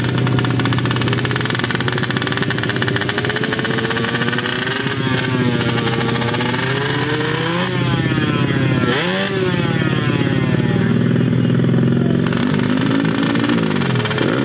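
Small-capacity underbone motorcycle engines running hard in a drag run. The pitch climbs, drops back and climbs again several times as the bikes shift up through the gears.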